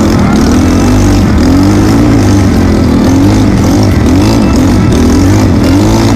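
Trail motorcycle engine running loud while riding, its pitch repeatedly rising and falling every half second to a second as the throttle is opened and closed.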